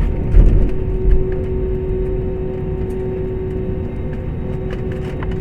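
Airliner cabin noise heard from inside: a steady low rumble with a steady engine tone, and a few heavy low thumps in the first second or so.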